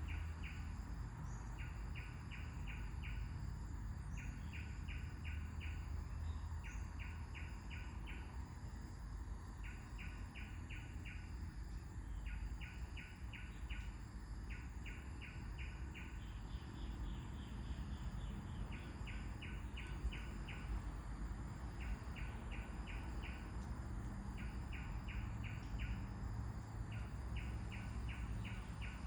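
Birds calling in a natural soundscape: a short, rapid trill repeats about every two seconds, with faint higher chirps in between, over a steady low wind rumble.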